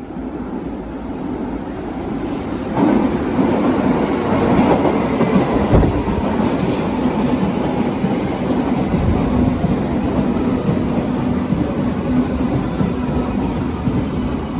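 Berlin U-Bahn large-profile train running on the rails, getting suddenly louder about three seconds in, with a steady hum through the second half.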